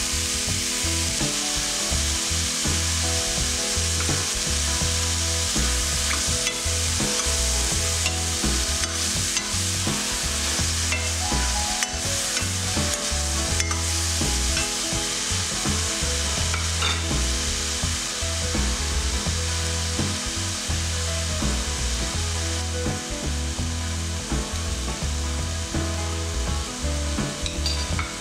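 Sliced carrot, green capsicum and mushroom sizzling as they fry in a stainless steel kadai, with a spoon stirring them and now and then clicking and scraping against the pan.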